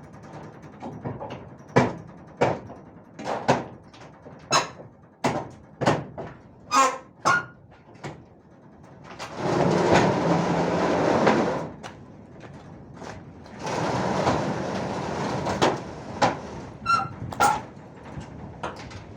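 A run of sharp knocks, one or two a second, then two long rushing noises, each about two and a half seconds, then a few more knocks near the end.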